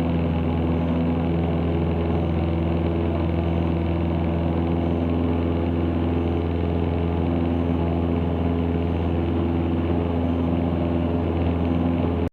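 Cessna 162 Skycatcher's four-cylinder Continental O-200 engine and propeller running at a steady speed, heard from inside the cabin as a constant low drone.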